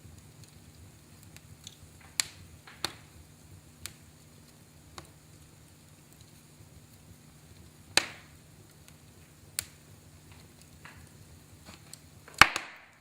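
Wood fire in a fireplace crackling: scattered sharp pops a second or more apart, the loudest near the end, over a faint steady low hum.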